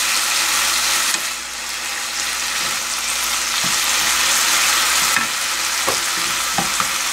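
Julienned burdock root sizzling in a nonstick frying pan as it is stirred with a wooden spoon, its soy-and-syrup braising liquid almost boiled down to a glaze. A few short knocks come in the second half.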